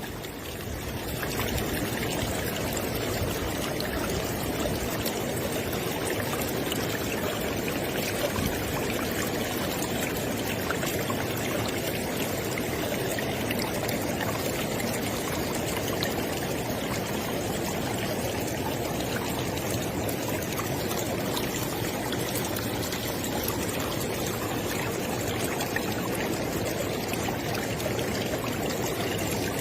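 River water flowing, a steady rushing and splashing that fades in over the first couple of seconds, then holds even.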